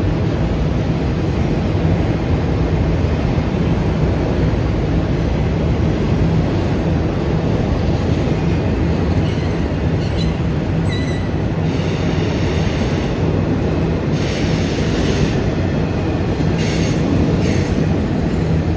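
Freight train rolling past with a steady rumble of wheels on rail. Short high-pitched wheel squeals come about nine to eleven seconds in and again in the last few seconds.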